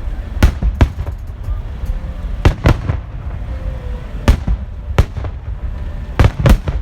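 Aerial fireworks shells bursting overhead: about nine sharp bangs at irregular intervals, some in quick pairs, over a continuous low rumble of further bursts.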